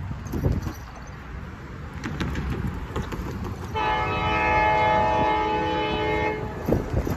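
Amtrak 392's locomotive horn sounding one long chord-like blast of about two and a half seconds, starting about halfway through. Wind buffets the microphone with a low rumble throughout.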